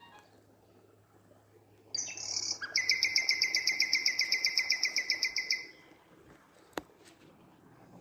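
A small songbird giving a rapid trill of evenly repeated high notes, about eight a second for some three seconds, after a single opening note. A sharp click follows about a second later.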